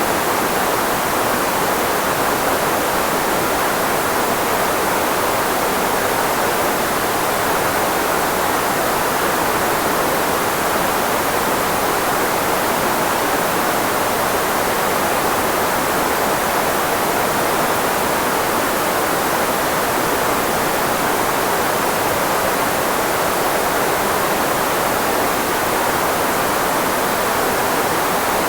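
Steady synthetic filtered white noise, shaped to mask the frequencies of the human voice, with most of its energy in the middle of the voice range; an even hiss like a waterfall, unchanging throughout.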